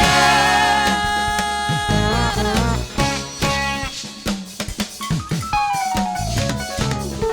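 Live church band playing between sung lines: held, slowly falling keyboard or vocal notes over a drum kit beating a steady rhythm of snare and bass drum.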